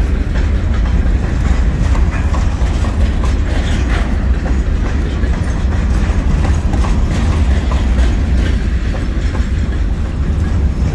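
Covered hopper cars of a freight train rolling past close by: a steady low rumble of steel wheels on rail, with irregular clicks and clanks from the wheels and couplers.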